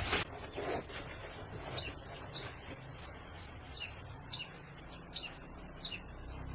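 Insects trilling steadily on one high note, with short high chirps breaking in every half second to a second. A brief burst of noise at the very start is the loudest moment.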